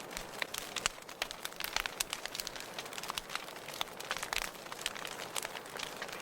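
Wood fire crackling and popping in a fireplace: irregular sharp snaps, several a second, over a soft hiss.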